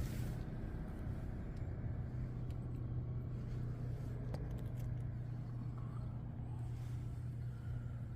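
Built 350 cubic-inch V8 in a 1955 Pontiac Star Chief, running at a steady idle through its dual exhaust.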